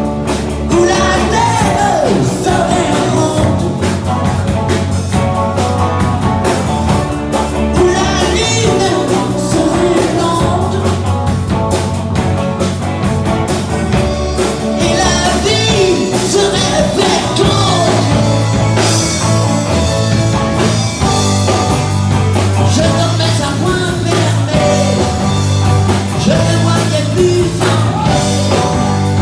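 Rock song with a singer over bass, drums and guitar.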